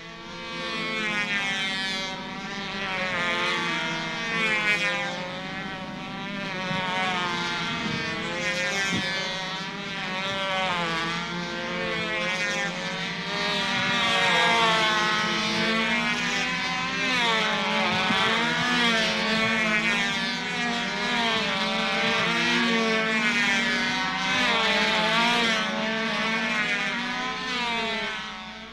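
A model airplane's small engine buzzing in solo flight, its pitch sliding up and down again and again as it circles and passes. The sound fades in at the start and fades out at the end.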